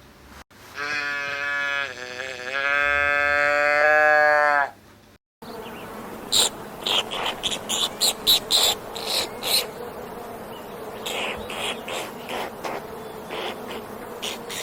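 A long animal call with a clear pitch, wavering in the middle. About five seconds in it gives way to a steady insect buzzing with scattered clicks.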